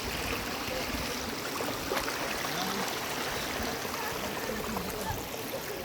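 A shallow stream flowing over rocks, a steady rushing and trickling of water.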